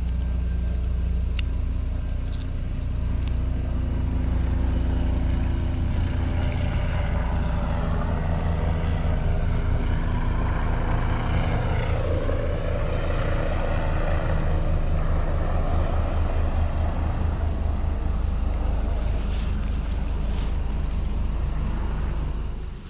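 A motor running steadily with a low rumble and hum, under a steady high hiss; it drops away sharply near the end.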